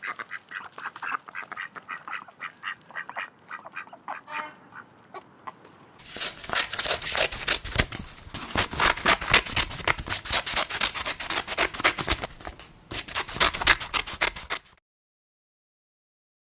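Ducks quacking in quick runs of calls. About six seconds in, the quacking turns louder and denser, then stops abruptly a little before the end.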